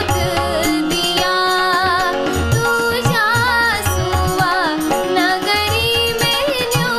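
A Kumaoni shagun folk song: a woman's voice singing an ornamented melody over regular tabla drum strokes.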